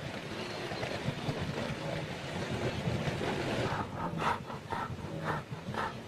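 Steady wind-like outdoor hiss, and from a little past halfway a wildebeest herd grunting: short nasal calls repeated about twice a second.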